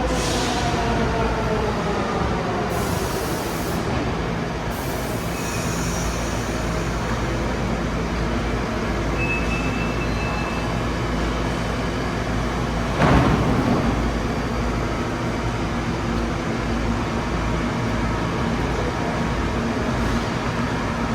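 New York City subway train, its traction motors whining down in pitch over the first few seconds as it slows. Then a steady rumble, with one brief loud knock about thirteen seconds in.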